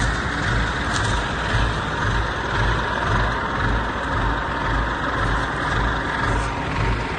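Heavy diesel engine of earthmoving machinery running steadily, its deep throb pulsing about twice a second.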